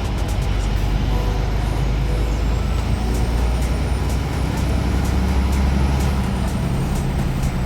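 A semi truck's engine running steadily under a drone of road noise while driving.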